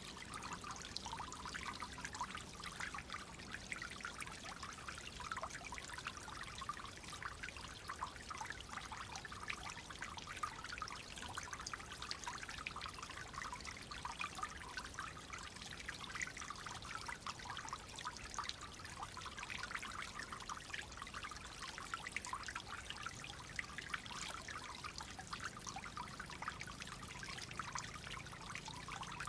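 Clear flowing water trickling and babbling steadily over stones.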